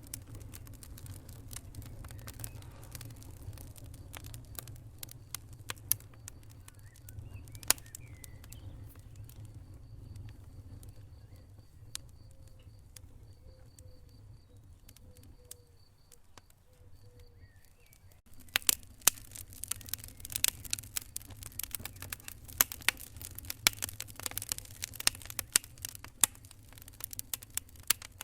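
Wood fire burning in a fireplace: a low steady rumble of flames under scattered crackles and sharp pops. The pops become more frequent and louder about two-thirds of the way in.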